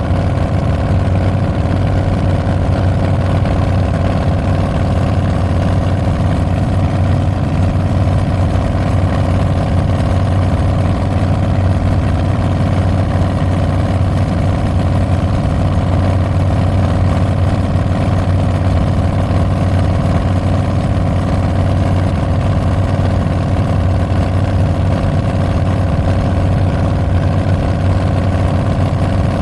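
Harley-Davidson Milwaukee-Eight 114 V-twin running through Tabs Performance slip-on mufflers with Zombie Baffles, held at a steady engine speed with no revving.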